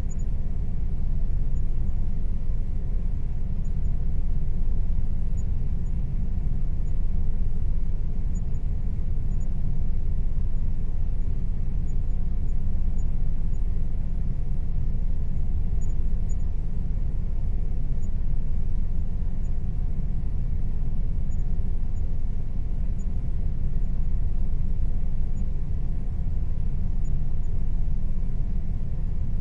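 Air conditioner running steadily: a constant low rumble with a faint steady hum above it.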